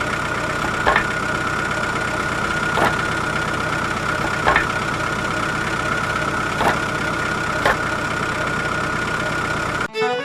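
A small motor running steadily with a constant whine, with a sharp knock every second or two. Music cuts in at the very end.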